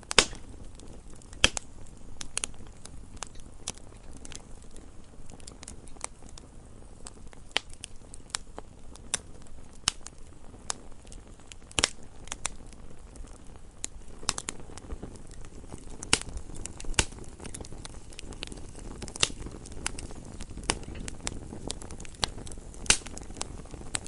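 Wood fire burning in a fireplace: irregular sharp crackles and pops, several a second with a few louder snaps, over a low steady rumble of the flames.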